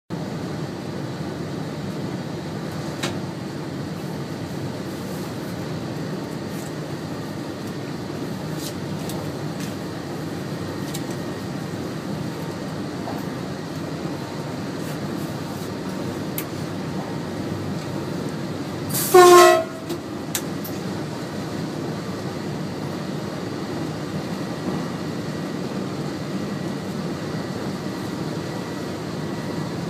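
Steady running noise inside a moving train's driver's cab, with a few faint clicks. About two-thirds of the way through, a train horn sounds once, loud and brief, falling slightly in pitch.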